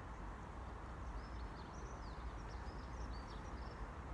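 A small bird chirping a quick run of short, high notes for a couple of seconds, over a steady low outdoor rumble.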